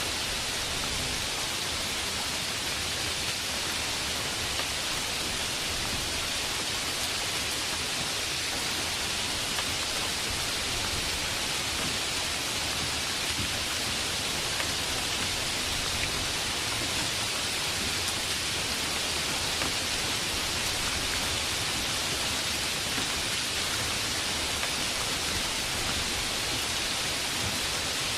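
Steady heavy rain, an even hiss of falling drops that neither builds nor fades.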